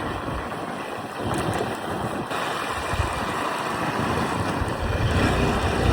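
Wind rushing over the microphone, a steady noise with a low rumble that grows louder near the end.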